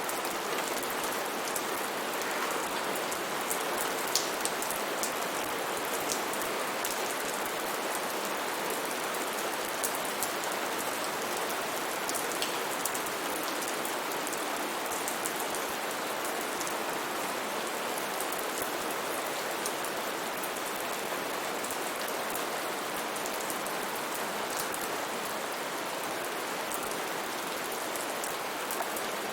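Steady rain falling, with an even hiss and many individual drops pattering and ticking on a surface.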